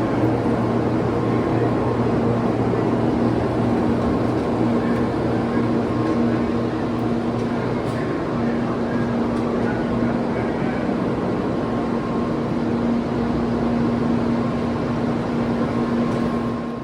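N700 Supreme Shinkansen train noise: a steady rushing sound with a constant electric hum.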